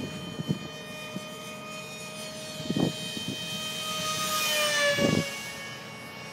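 Electric ducted fan of a radio-controlled model F-35 jet whining as it flies past, growing louder and then dropping in pitch as it goes by. Short gusts of wind buffet the microphone.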